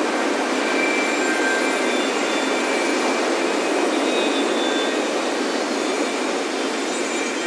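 Ocean surf washing steadily onto a sandy beach, with faint wind chimes ringing here and there above it.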